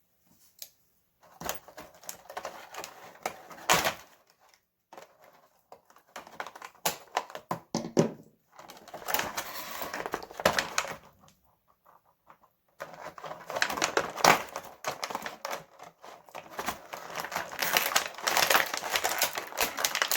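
Plastic and cardboard action-figure packaging being handled and opened: irregular bursts of rustling, crinkling and sharp clicks, with short pauses between them.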